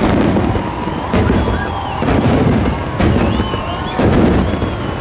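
Fireworks display: aerial shells bursting with sharp bangs about once a second over a continuous low rumble, with thin whistling tones gliding between the bangs.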